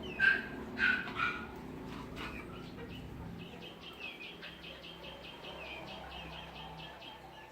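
Chickens calling: three loud calls in the first second and a half, then a rapid run of short high chirps, about five a second, from about three seconds in.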